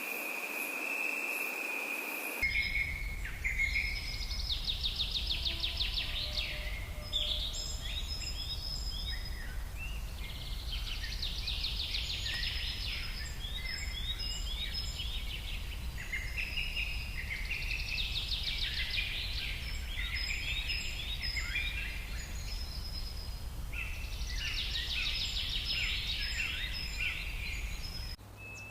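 A steady, high, insect-like trill over hiss, then an abrupt change to songbirds singing. One bird repeats a phrase of a fast trill followed by quick down-sliding notes about every six seconds, with other chirps between, over a low steady rumble.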